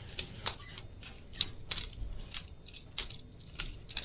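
Boker Plus balisong butterfly knife being flipped: its metal handles swing and clack against the blade's tang and each other, about ten sharp, irregular metallic clicks.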